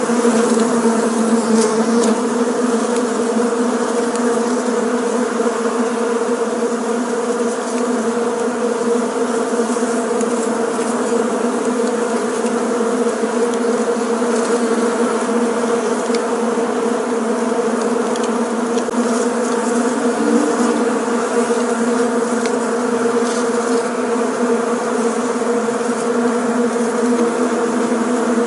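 Bees buzzing together in a steady, continuous drone, the hum holding an even pitch throughout.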